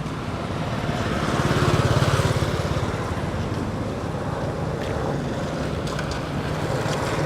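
A motor vehicle engine running with a rapid, even pulse. It swells about two seconds in as it passes close, then settles to a steady hum.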